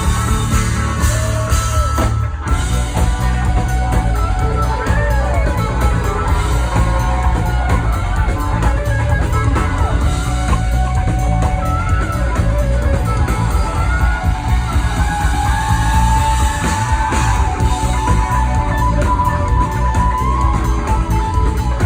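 Live band playing loud funk-rock: an electric guitar lead with bending notes over drum kit and bass.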